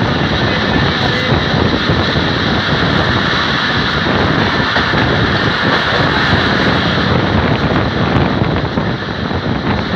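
Steady rush of a passenger train running at speed, heard from an open coach doorway: wheel and track rumble mixed with wind buffeting the microphone.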